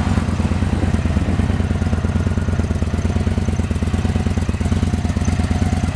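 2015 Victory Gunner's 1,731 cc (106 cubic inch) air- and oil-cooled V-twin idling steadily through its stock exhaust, a pretty quiet, even idle.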